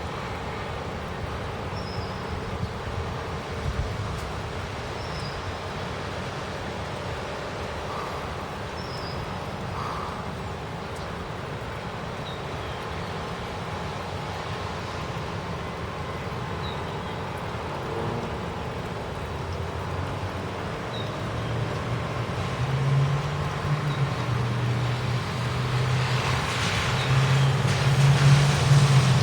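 Steady outdoor road traffic noise. A vehicle's low engine hum grows louder over the last several seconds as it approaches.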